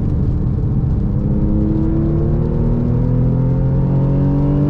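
Porsche 996.2 Carrera's 3.6-litre flat-six accelerating, its pitch rising steadily as the revs climb through a gear, heard from inside the cabin over wet tyre and road noise.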